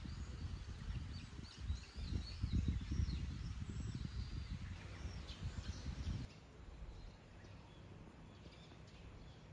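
Small birds chirping over gusts of wind buffeting the microphone; about six seconds in the sound cuts abruptly to a quieter, calmer background.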